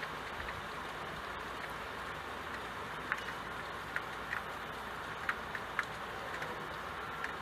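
Steady rain on window glass, an even hiss with a few sharp drop ticks at irregular moments.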